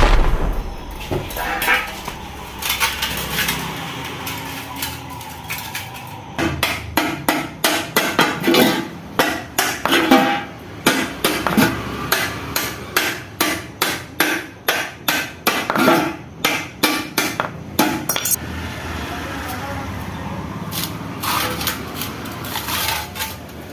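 Metal parts being struck and tapped with hand tools during an engine rebuild: a run of sharp metallic taps and clanks, about two to three a second for roughly twelve seconds, stopping a few seconds before the end.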